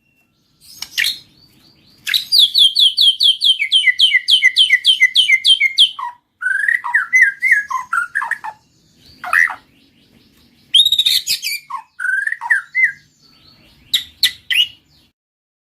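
White-rumped shama (murai batu) singing loud whistled phrases. A long run of rapid repeated notes, about five a second, gives way to varied warbling phrases broken by short pauses. The song stops near the end.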